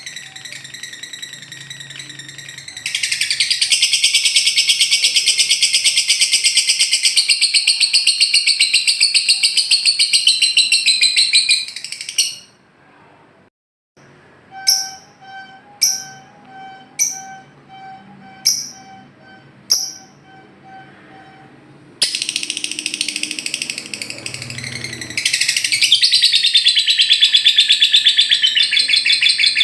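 Lovebird singing its long 'ngekek' song: a loud, rapid, high-pitched chattering trill held for several seconds at a time. In the middle there is a short break, then about six short calls about once a second before the trilling starts again.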